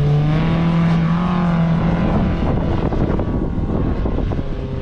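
Off-road 4x4's engine revving hard and held at high revs, then the steady note gives way about two seconds in to a rough, uneven noise.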